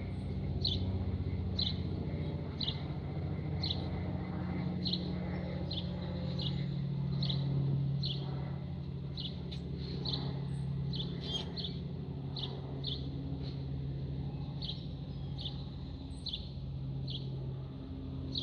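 A small bird chirping the same short, high call over and over, about once a second, over a steady low drone.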